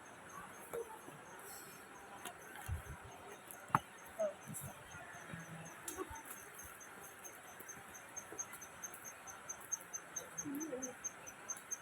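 An insect chirping in a steady high-pitched pulse train, about three to four chirps a second, clearest in the second half. A single sharp knock sounds about four seconds in.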